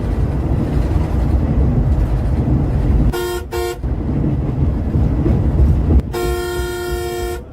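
Steady low rumble of a vehicle on the road. A horn with a chord-like tone gives two short toots about three seconds in, then one long blast about six seconds in.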